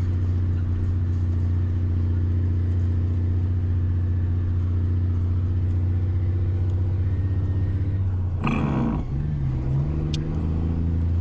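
A vehicle engine running at a steady low drone, with a short burst of noise about eight and a half seconds in and a brief wavering tone after it.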